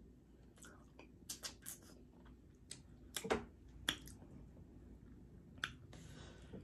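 Close-miked chewing of a bite of fried chicken: scattered wet mouth clicks and lip smacks, a few sharper than the rest.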